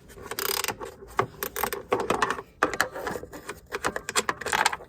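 Rapid metallic clicking and rattling of hand tools against a lawn mower's metal parts as a part is unbolted and taken off.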